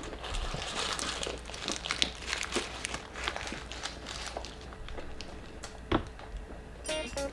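Close-up chewing of a big mouthful of cheese-crusted Nashville hot chicken breakfast burrito: a steady run of small crackles and wet mouth clicks, with one sharper click about six seconds in. Background music starts just before the end.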